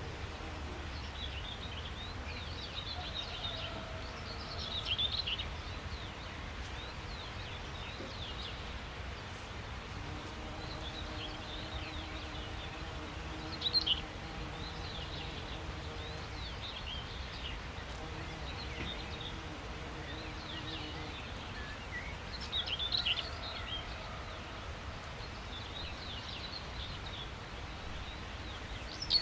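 Outdoor ambience of songbirds chirping and calling over a steady low rumble, with brief louder bursts of calls about five, fourteen and twenty-three seconds in and again at the end.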